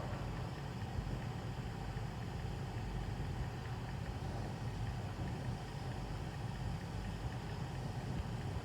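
Steady low rumble of a car engine idling in a car-wash tunnel.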